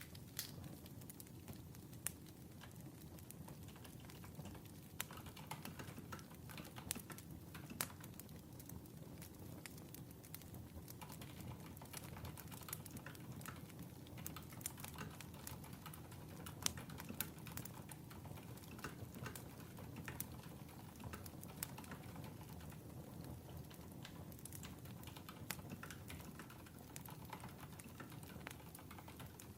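Faint crackling of a burning wood fire: irregular sharp pops and clicks over a low, steady rumble.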